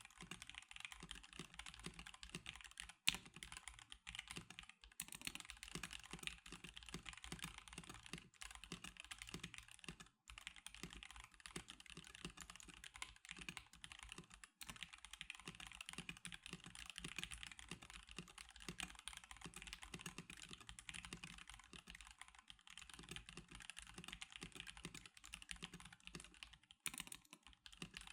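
Stock NovelKeys NK87 Darkshake Edition mechanical keyboard being typed on continuously and quickly, a dense run of key clacks with a brief pause about ten seconds in.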